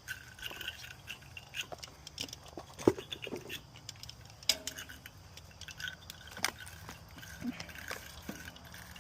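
Scattered light clicks, taps and metallic clinks of hand tools and hardware being worked at the tractor's battery terminal connections, with one sharper knock about three seconds in.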